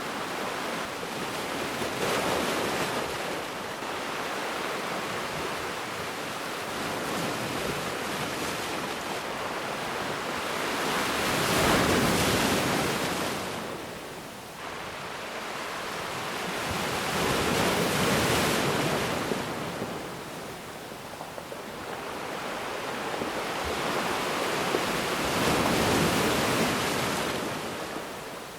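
Ocean surf: waves breaking and washing in, a steady rush that swells and ebbs, with four louder breaks several seconds apart.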